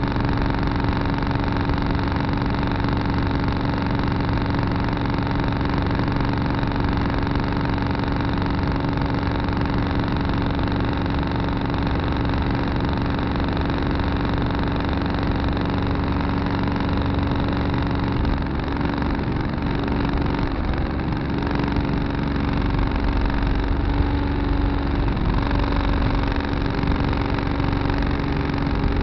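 Tractor engine running steadily at a constant speed, with a steady hum and no change in pitch.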